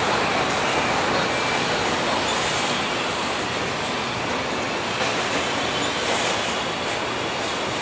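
Empty autorack freight cars rolling past: a steady noise of steel wheels running on the rail.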